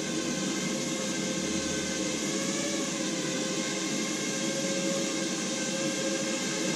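Small electric quadrotor drone in flight, its four motors and propellers buzzing steadily with a pitch that wavers slightly as the motors adjust speed.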